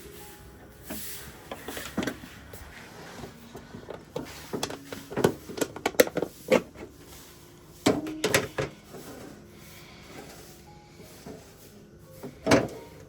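Household clatter: a run of sharp knocks and clicks from objects being handled, bunched in the middle, with one louder knock near the end.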